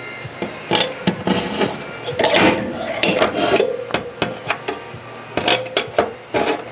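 Irregular knocks and taps of hand tools on a car's sheet-metal body during dent repair, with scraping in between and a faint steady hum underneath.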